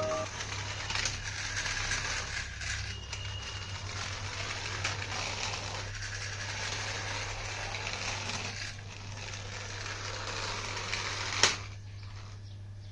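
Rustling and small clicking handling noise over a steady low hum, with one sharp click near the end.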